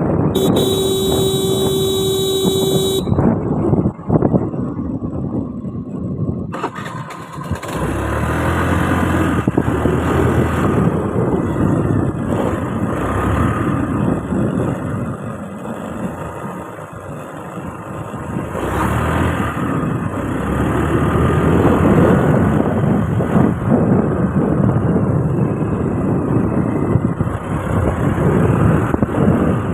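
A vehicle horn sounds one steady note for about two and a half seconds. Then comes the continuous engine and road noise of a motorcycle being ridden, with the engine revving up about eight seconds in.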